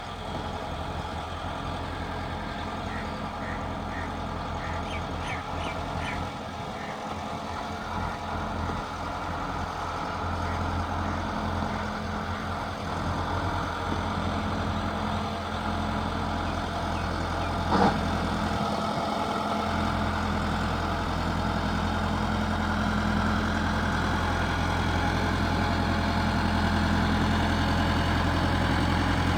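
Massey Ferguson 375 tractor's diesel engine running steadily and growing gradually louder, with a single sharp knock about eighteen seconds in.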